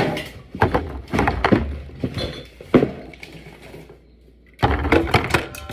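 Bottles being set onto a refrigerator shelf: a run of knocks and clinks, a brief lull, then a denser clatter near the end.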